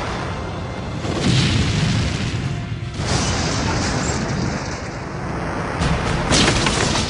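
Rumbling explosion blasts over a music score, with fresh surges of blast noise about a second in, about three seconds in, and near the end.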